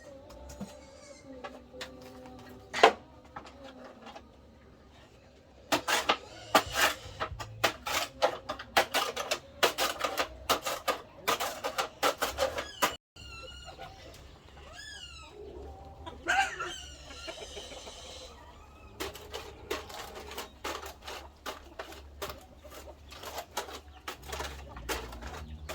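Chickens clucking with a rooster crowing, among long runs of quick sharp knocks.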